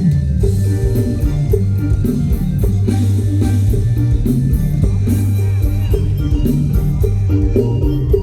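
Loud band music: a heavy bass line, a drum kit beating steadily and electric guitar, with a little singing.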